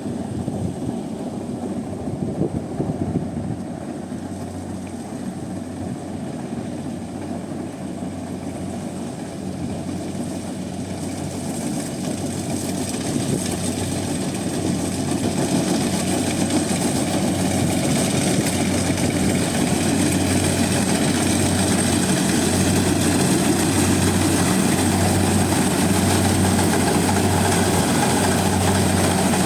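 Rice combine harvester engine running steadily, growing louder through the middle and then holding, with a thin high whine over it.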